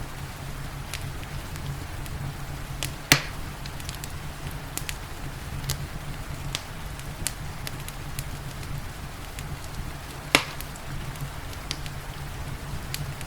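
Wood fire in a fireplace crackling over a steady low rumble, with scattered small snaps and two loud pops, about three seconds in and about ten seconds in.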